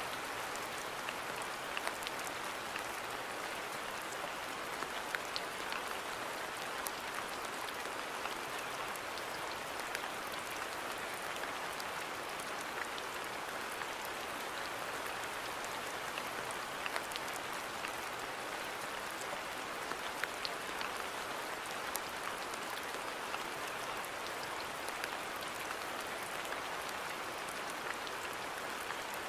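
Steady rain falling on a garden, an even hiss with scattered sharper ticks of individual drops.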